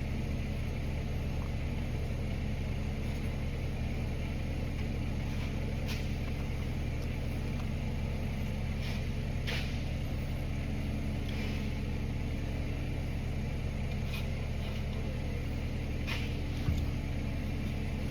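A steady, low machine hum made of several pitches, unchanging throughout, with a few faint short scraping sounds over it.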